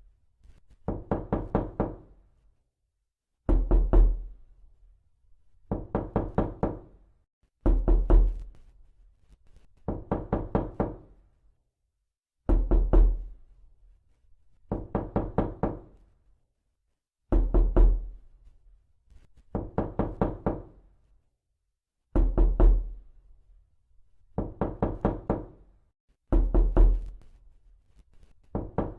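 Knocking on a door in sets of four to six quick raps, a set about every two seconds, alternating a louder set with a softer one, with dead silence between sets.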